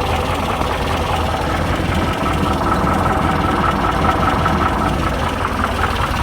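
VW T2 camper's air-cooled 1641 cc flat-four engine idling steadily.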